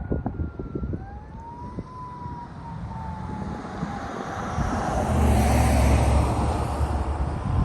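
Fire trucks responding with siren: the siren tone winds up about a second in and then slowly winds down, while a heavy truck engine rumble builds and passes close, loudest about five to seven seconds in.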